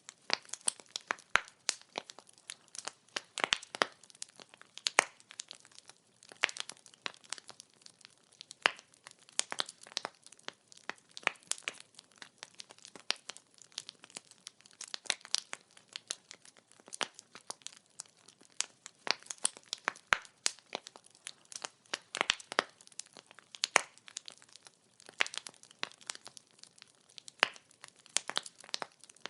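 Firewood burning, crackling and popping: many irregular sharp snaps, some louder than others, over a faint steady hiss.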